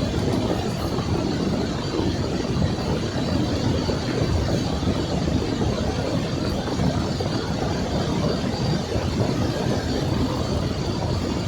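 A car driving on a snowy road: a steady low rumble of engine and tyre noise that holds even throughout.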